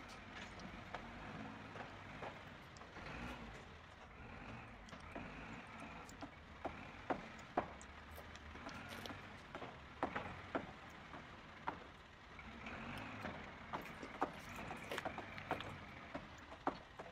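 Toy construction trucks being handled and moved about by hand, giving scattered light clicks and knocks of the toy parts against each other and the play surface.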